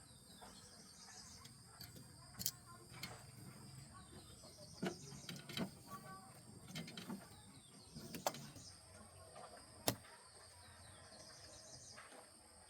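Scattered light knocks and sharp clicks of hand tools being worked on a car, the sharpest click about ten seconds in, over a steady high chirping.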